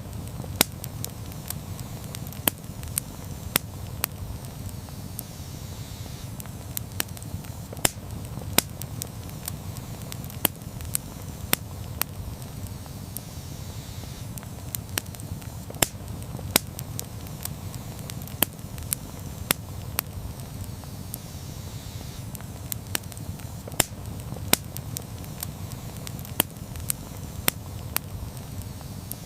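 Wood campfire burning, with frequent sharp, irregular crackles and pops over a low, steady rumble of the flames.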